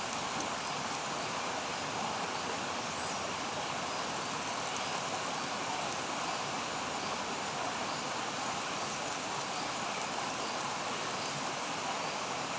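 Steady nature ambience: an even rushing noise with a high-pitched shimmer that fades in and out several times.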